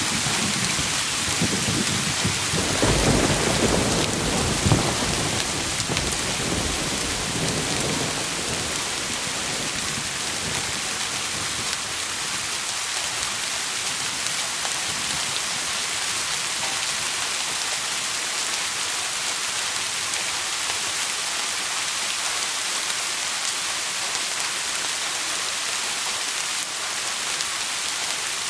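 Steady rain hissing, with a rumble of thunder rolling through the first several seconds. The thunder is strongest around three to five seconds in, then fades, leaving only the rain.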